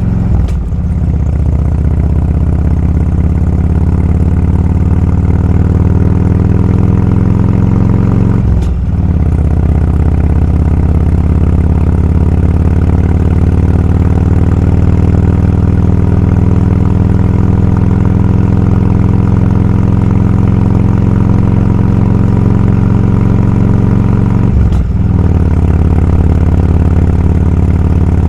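Motorcycle engine running under way, its pitch climbing slowly. It is broken by three brief dips, about half a second in, near 9 seconds and near 25 seconds, where the gears change.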